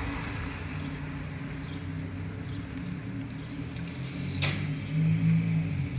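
Diesel engine of heavy demolition machinery running steadily, with one sharp clank about four and a half seconds in; the engine grows louder near the end.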